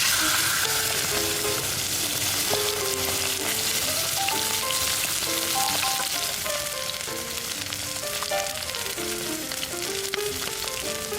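Food sizzling and frying loudly in a hot pan, the sizzle having just started as the food went in and easing off a little over the seconds, with background music playing a melody over it.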